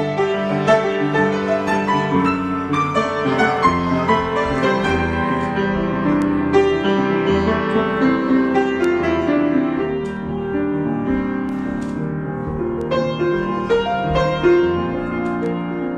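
Piano improvisation: many sustained notes and chords played continuously, somewhat sparser in the second half.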